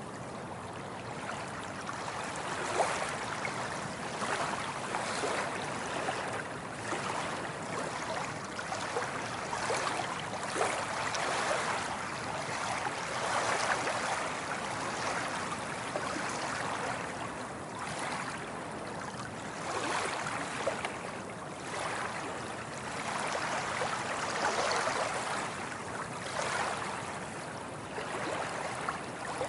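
Water waves washing and lapping, swelling and easing every couple of seconds, with small splashes and gurgles.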